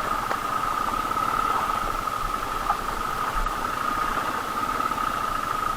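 Royal Enfield Thunderbird 500 single-cylinder engine running as the motorcycle rides over a rough off-road track, with uneven low pulsing and a steady high-pitched whine throughout.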